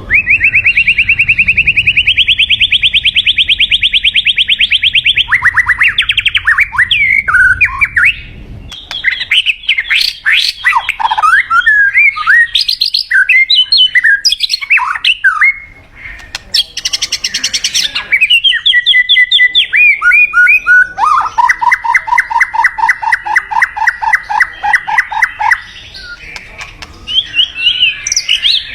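White-rumped shama singing. A long, fast, high trill is followed by a run of varied whistled phrases, a short buzzy note, and then a second fast trill, lower in pitch.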